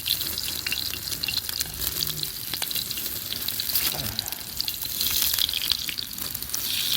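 Chicken pieces frying over a campfire: a steady sizzling hiss with many small crackles and pops.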